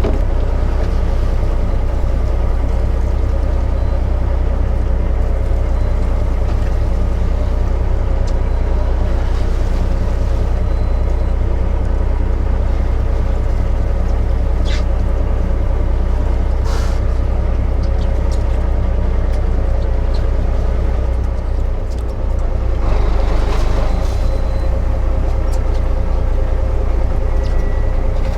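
A fishing boat's engine running steadily with a deep, even drone. The drone dips briefly about three-quarters of the way through, followed by a short rush of noise.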